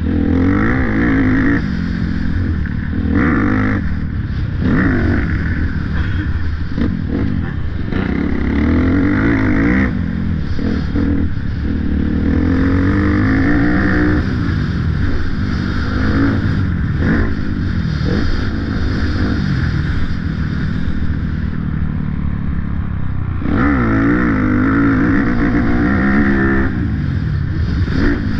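Motocross dirt bike engine running hard, its pitch rising and falling again and again as the rider revs it up and backs off.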